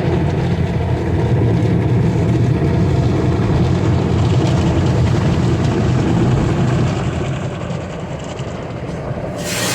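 Car wash machinery rumbling and clattering, heard from inside the car's cabin. Near the end, a loud steady hiss starts suddenly.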